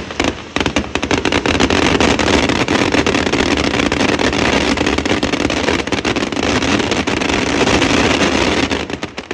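Fireworks going off in a dense, rapid run of crackling bangs that merge into one continuous crackle, thinning out near the end.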